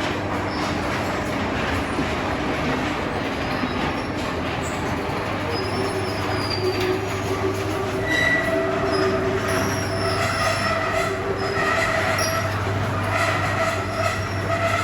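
A train running on rails, a steady rumble with several high squealing tones from the wheels or motors coming in about halfway through.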